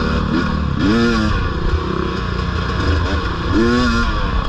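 Dirt bike engine running under way, its pitch rising and falling twice as the throttle is opened and eased off, about a second in and again near the end.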